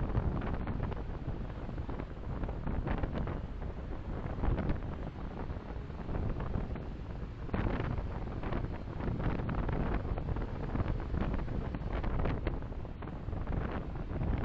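Steady tyre and wind noise of a car driving, picked up by a dashcam's microphone.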